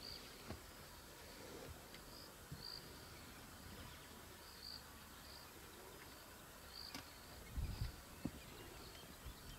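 Faint insects chirping in the bush: short, high cricket-like chirps repeating about once a second over a soft hiss, with a brief low rumble about eight seconds in.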